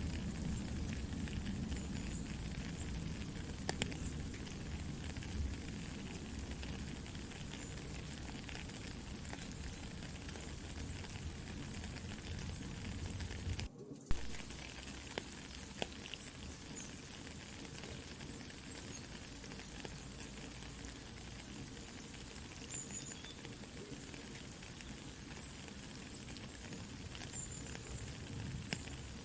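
Steady soft rain mixed with a campfire crackling, an even hiss with scattered sharp pops from the burning wood. About halfway through the sound drops out for a moment, then resumes with less low rumble.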